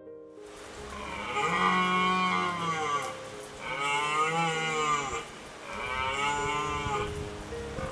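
Cow mooing three times, each moo a long, drawn-out call.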